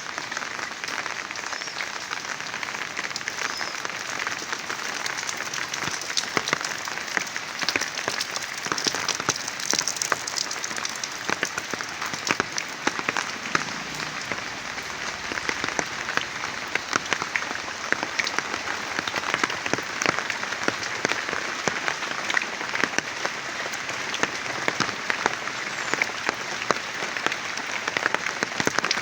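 Heavy rain falling steadily, a dense hiss of many close drop impacts.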